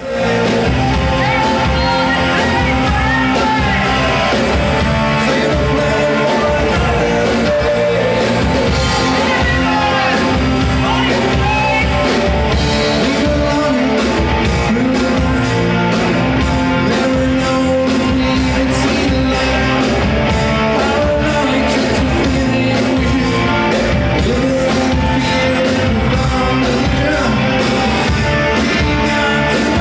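Rock band playing live: electric guitars over a steady drum beat, with a singer's voice.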